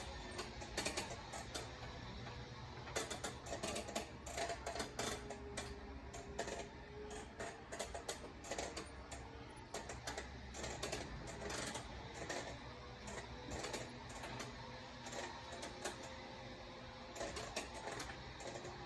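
Store interior ambience: irregular light clicks and taps over a steady low hum, with faint short tones in the background.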